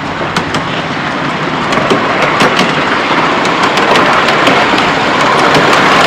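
Miniature railway train approaching and growing steadily louder: a dense rushing hiss with scattered sharp clicks.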